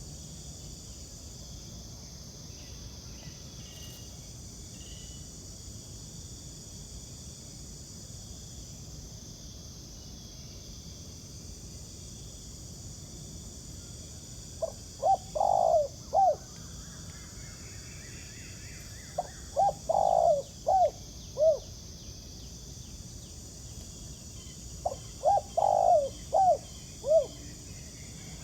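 Spotted dove cooing: three song phrases of several low coos each, about five seconds apart, in the second half. A steady high chirring of insects runs underneath.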